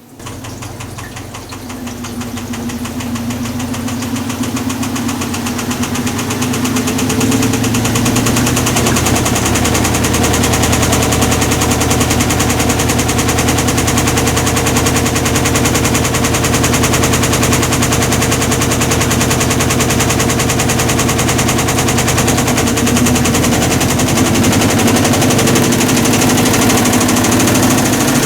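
Hitachi BeatWash BW-D8KV washing machine's drive starting up suddenly and building over several seconds, then running steadily with a loud, rapid rattling noise. The noise comes from a failed clutch, which the owner puts down to overloading the drum.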